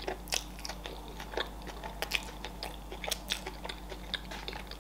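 A person chewing a mouthful of stuffed boiled egg and leafy greens, with wet mouth smacks and small crunchy clicks at irregular intervals.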